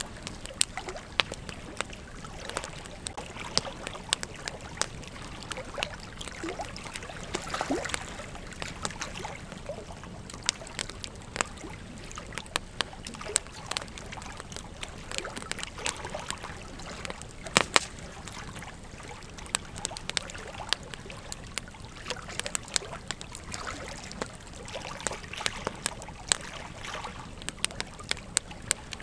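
Campfire crackling: irregular sharp pops and snaps over a steady hiss, with the loudest pop a little past halfway.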